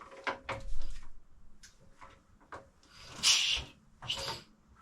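A few separate clunks and knocks from handling the 1928 Velocette KNS motorcycle, the loudest about a second in, with short hissing rushes near the end; the engine is not running.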